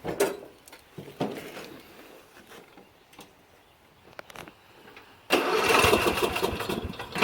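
A few light clicks and knocks, then about five seconds in a riding lawn mower's electric starter begins cranking the engine, which does not catch. The battery is weak and running out of charge.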